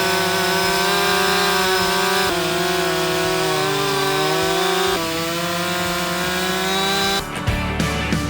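Chainsaw running at high revs, its pitch sagging and wavering in the middle as the chain loads up in a cut, with two abrupt jumps in pitch. Near the end it gives way to music.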